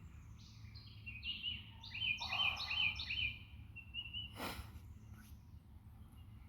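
A songbird singing a phrase of short, quickly sliding notes, repeated several times, over a steady low background rumble. There is a single short knock about four and a half seconds in.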